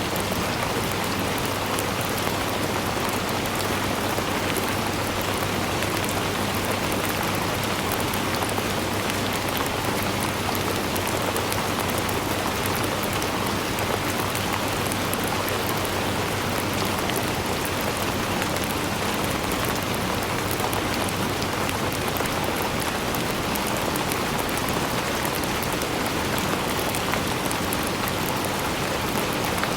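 Steady rain falling, a dense even hiss with many fine drop patters on surfaces, holding the same level throughout.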